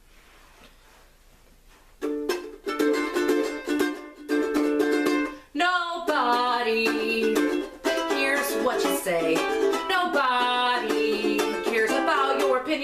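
Ukulele strummed in a steady rhythm, starting about two seconds in after a quiet start, with a woman singing along from about halfway through.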